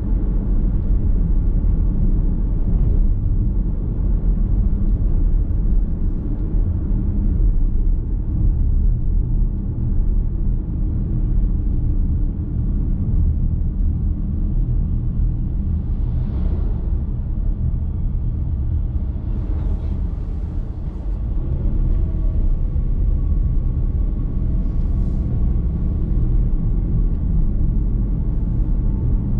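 Steady road and tyre noise with a low rumble, heard inside a moving car's cabin, with a few brief faint hisses in the second half.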